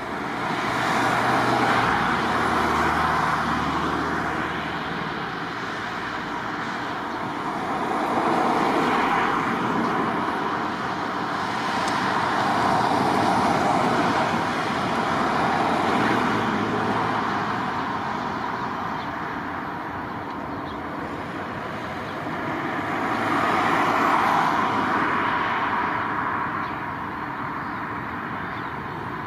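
Road traffic: vehicles passing one after another, each swelling and fading over a few seconds, over a faint steady hum.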